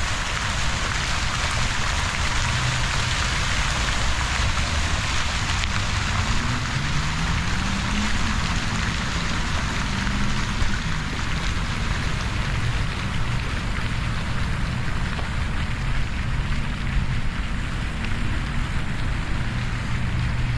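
Fountain water splashing steadily into its basin, an even rushing hiss. A low engine hum from traffic sits underneath and rises in pitch once, near the middle.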